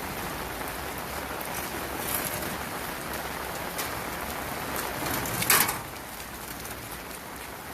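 Steady rain falling and drumming on surfaces, with a few sharper bursts of noise; the loudest comes about five and a half seconds in.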